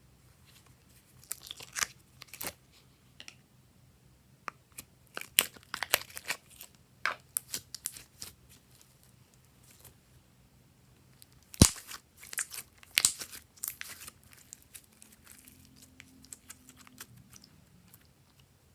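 Glossy slime being stretched and pressed, giving irregular sticky clicks and crackling pops in clusters, with one sharp snap a little past the middle.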